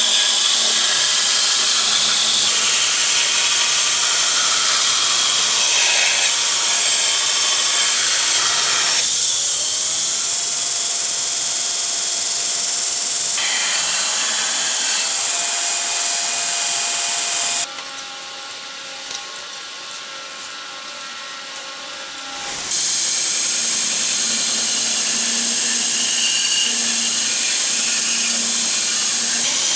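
Power grinder grinding the steel profile of a forged axe head: a loud, steady, hissing grind. It changes abruptly a few times, and there is a quieter stretch of about five seconds with a steady hum near the two-thirds mark.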